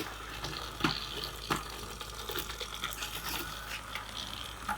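Battery-powered toy train running along its track, its small electric motor whirring steadily, with two faint clicks about a second in and a second and a half in.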